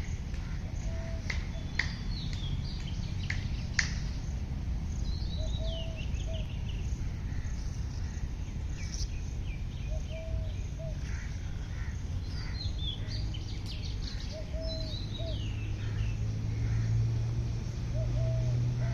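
Several wild birds singing and chirping in quick falling series, with a short low call repeated about every two seconds. A few sharp clicks come in the first few seconds, over a steady low rumble, and a low hum grows louder near the end.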